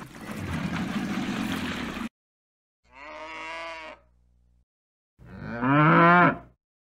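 Cattle mooing twice: a shorter, softer moo, then a louder, longer one rising in pitch. Before that, a noisy low sound cuts off suddenly about two seconds in.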